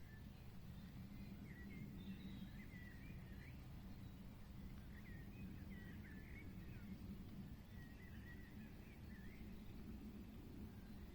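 Faint birdsong: scattered short chirps and twitters in three loose bursts, over a steady low rumble.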